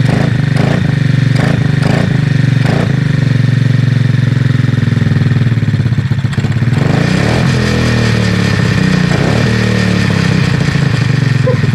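Kayo pit bike's small four-stroke engine running on its freshly overhauled carburettor, holding a steady speed, then changing revs for a couple of seconds about seven seconds in before settling back.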